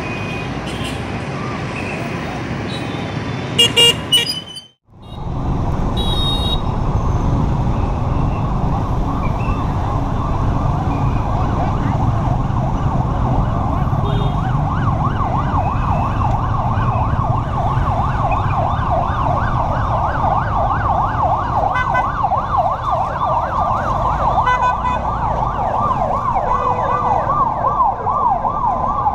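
Steady road traffic noise with a few short loud beeps about four seconds in; after a brief cut, a fire engine's siren comes in, sweeping rapidly up and down and growing louder toward the end.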